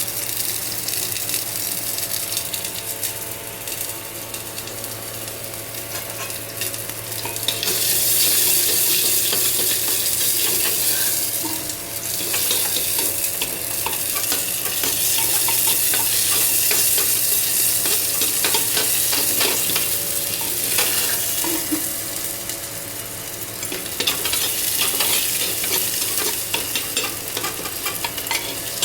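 Food sizzling as it fries in hot oil in a pan while it is stirred. The sizzle grows louder about a quarter of the way in and dips briefly twice, over a steady low hum.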